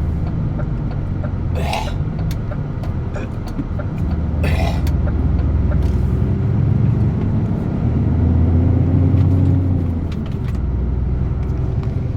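DAF truck's diesel engine running as the truck drives, a steady low rumble. Two short hissy bursts come about 2 and 4.5 seconds in, and the engine grows louder with a slight rise in pitch around 8 to 10 seconds in, as if pulling harder.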